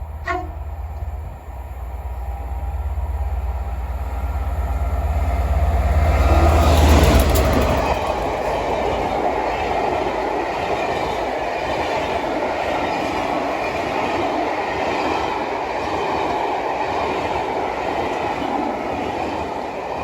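A train passing at close range: a low engine rumble builds to its loudest about seven seconds in, then gives way to a steady rush and clatter of wheels on the rails, easing off near the end.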